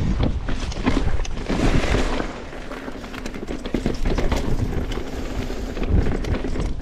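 A mountain bike riding a rocky dirt trail: tyres crunching over dirt and loose rock, with the bike clattering and knocking over the bumps throughout.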